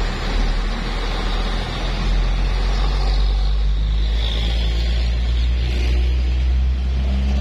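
Heavy loaded truck's engine running with a loud, steady low rumble.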